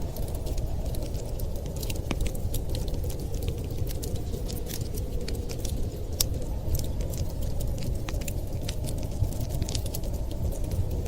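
Crackling wood fire: scattered sharp snaps and pops, irregular and close together, over a steady low rumble.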